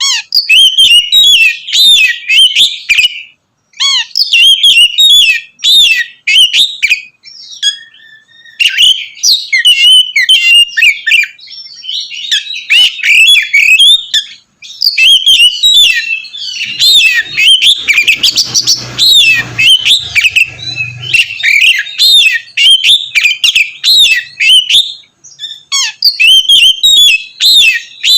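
Oriental magpie-robin (kacer) singing loudly, a fast varied song of sweeping whistled notes delivered in long phrases with brief pauses between them.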